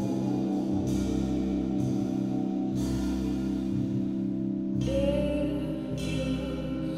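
Live band music: held keyboard or organ chords over a low beat about once a second, with a singing voice coming in about five seconds in.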